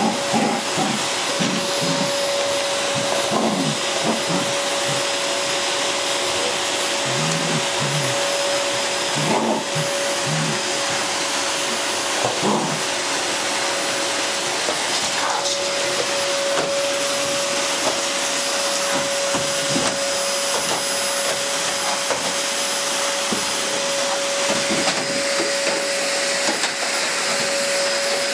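Vacuum cleaner running steadily with a constant whine on top of its airflow noise; a few shorter, irregular lower sounds come and go over it, mostly in the first half.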